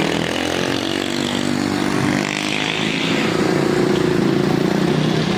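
Vehicle engine running steadily under load, its pitch easing off about a second in and pulling up again in the second half.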